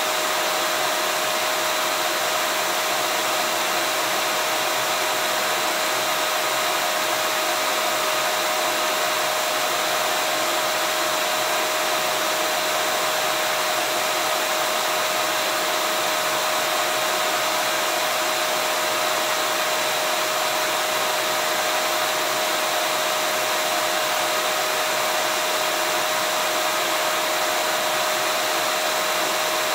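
Vacuum cleaner motor running steadily with a constant whine over a wide airflow hiss.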